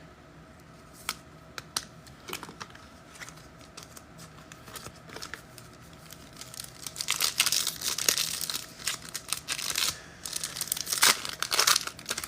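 Foil wrapper of a trading card pack being torn open and crinkled. There are a few light clicks and rustles at first, then dense crinkling from about seven seconds in, and again near the end.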